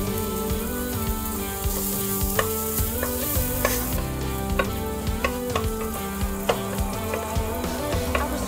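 Minced ginger and garlic frying gently in melted butter in a stainless steel pan. A wooden spatula stirs them, with repeated light scrapes and taps on the pan, over soft background music.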